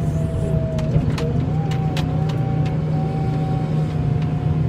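Vehicle engine running steadily, with a steady whine over it that wavers slightly in pitch and scattered sharp clicks.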